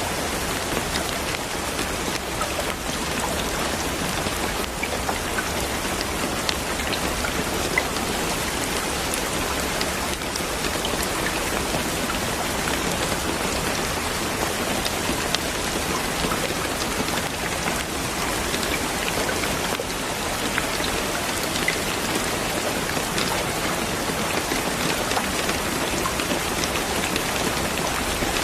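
Steady rain falling on a surface, an even dense hiss sprinkled with small drop ticks.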